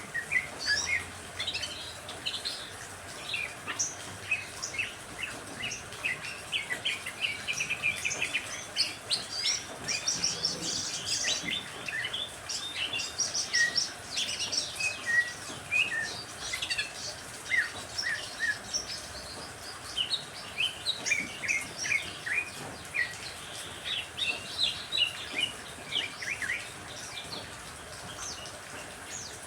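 Several birds chirping and calling busily, many short quick notes and trills overlapping throughout, over a faint steady hiss of rain.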